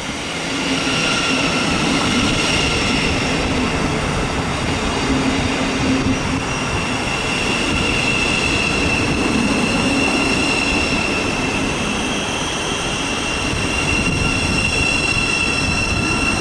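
Thameslink Class 700 electric multiple unit running along the platform, its wheels and running gear giving a steady rumble with a high, steady whine over it.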